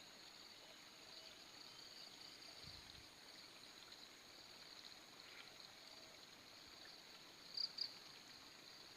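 Faint, steady high-pitched insect chirring, with two short, louder high chirps a little before the end.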